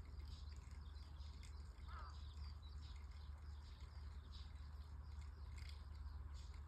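Faint birdsong: small birds chirping, with short high notes scattered throughout and one lower descending call about two seconds in, over a steady low hum.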